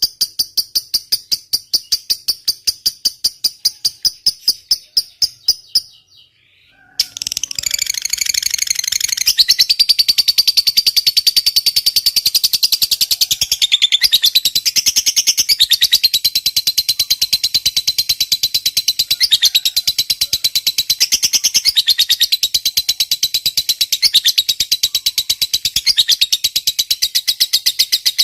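A lovebird's long, unbroken, shrill chattering trill, the prized 'ngekek panjang' of a fighter lovebird. It starts about seven seconds in, after a rapid, even series of high chirps and a brief pause.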